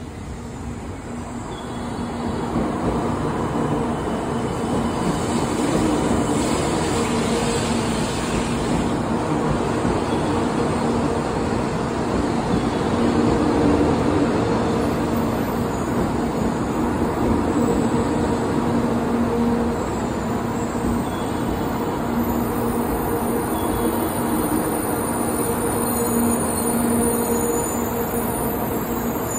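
JR West 700 series "Rail Star" shinkansen running in along the platform: a steady rumble of wheels on rail with a low electric hum, building over the first two or three seconds.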